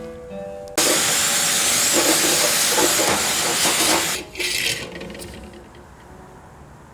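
Loud steady hiss of gas released under pressure, cutting in sharply and lasting about three seconds, then a shorter burst about a second later.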